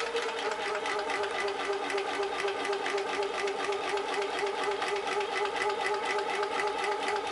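Homemade drink-can Stirling engine generator with a graphite piston running steadily, a fast, even mechanical rhythm like a small sewing machine.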